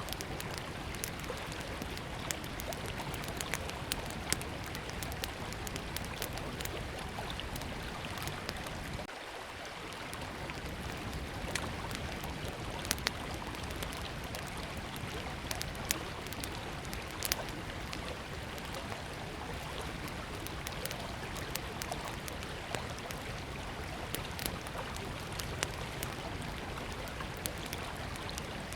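A small wood fire crackling with irregular sharp pops over the steady rush of a flowing river.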